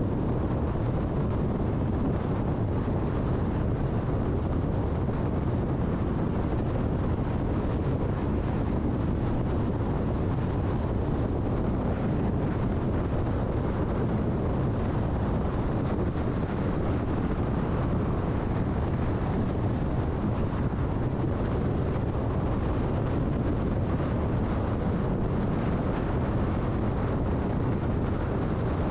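Steady road noise of a car cruising at freeway speed: tyre rumble and wind, unchanging throughout.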